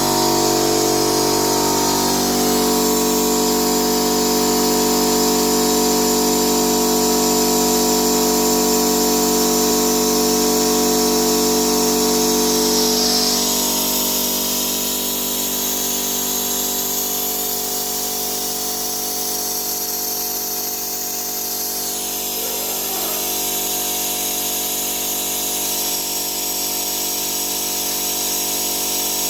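Electric oil extraction pump running steadily as it sucks engine oil out from the top of the engine rather than through the sump drain. About halfway through, its tone shifts lower and it becomes slightly quieter.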